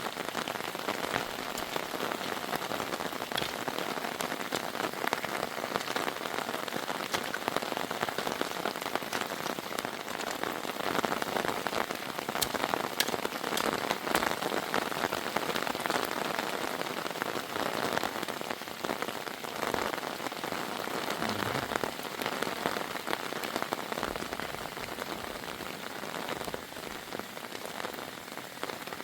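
Heavy rain falling steadily on a surface, a dense hiss full of small sharp drop impacts, easing a little in the last few seconds.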